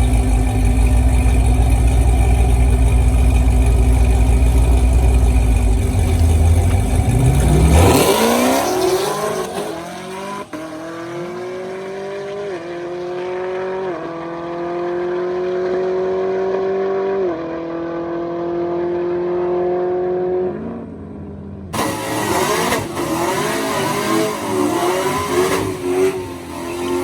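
Drag car launching and pulling hard, its engine note climbing and dropping back at three gear shifts as it goes away and fades. Before the launch there are several seconds of loud low rumble, and near the end a different stretch of wavering engine noise cuts in.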